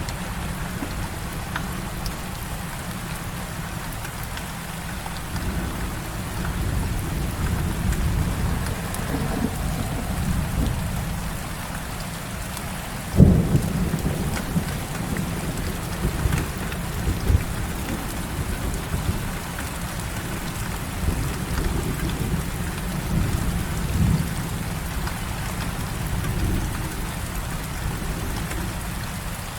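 Heavy rain falling steadily, with thunder rumbling low. A sudden loud thunderclap comes about 13 seconds in, followed by further rumbles.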